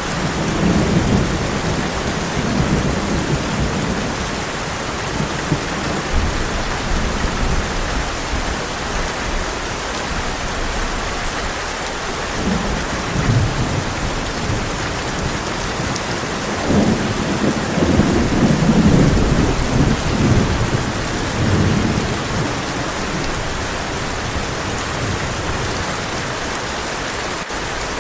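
Heavy rain falling steadily on a tin roof, with rolling thunder rumbling in at the start and again, loudest, past the middle.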